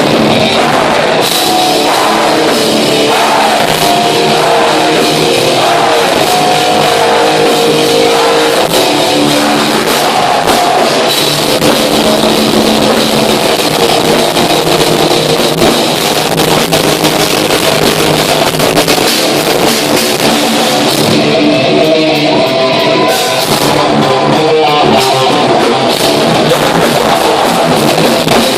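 Heavy metal band playing live: distorted electric guitars and a drum kit, loud and continuous, in a harsh, poor-quality audience recording.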